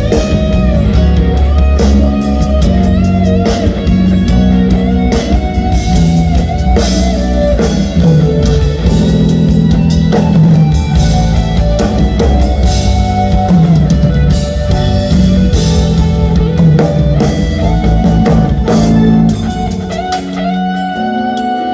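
Live rock band playing during a sound check: electric guitar over a drum kit and bass. The band thins out about 19 seconds in, leaving mostly guitar.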